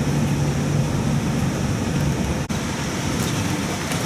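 Steady engine and road noise heard inside a moving shuttle bus: a low hum under an even hiss, with a split-second break about two and a half seconds in.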